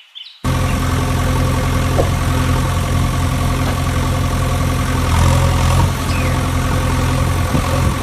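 Vehicle engine idling steadily, a low, even hum that starts abruptly about half a second in.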